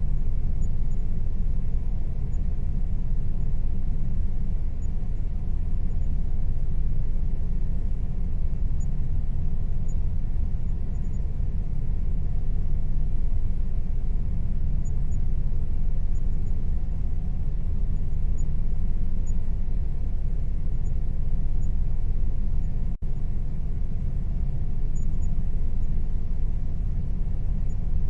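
Air conditioner running with a steady low rumble and a faint steady hum above it, briefly cutting out once late on.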